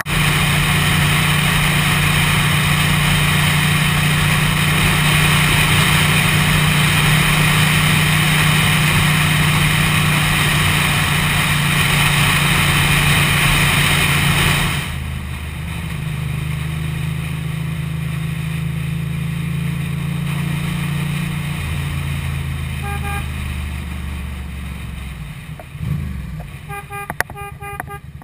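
Ducati motorcycle ridden at road speed, with heavy wind rush on the microphone over a steady engine hum. About halfway the wind noise drops sharply as the bike slows, and the engine note falls in steps. A few short electronic pips sound near the end.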